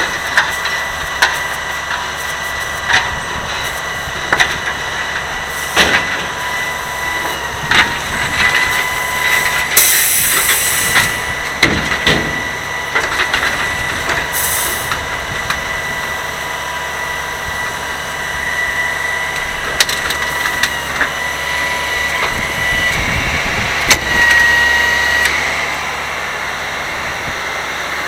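Grapple garbage truck running with a steady whine, scattered knocks and clunks, and short bursts of air hiss about ten seconds in and again near fifteen seconds.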